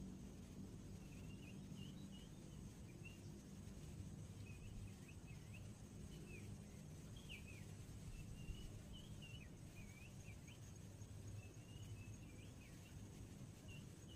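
Faint outdoor ambience: small birds twittering in short, wavering chirps scattered throughout, over a low steady rumble.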